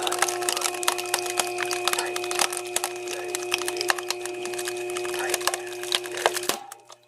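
Firewood-cutting machine working through wood: a steady motor hum under dense crackling and splintering of wood, which cuts off suddenly about six and a half seconds in.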